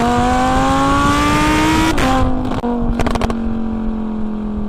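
Lamborghini Huracán's V10 exhaust at high revs under acceleration: the note climbs for about two seconds, drops sharply as it shifts up, then holds a steady high-rev howl.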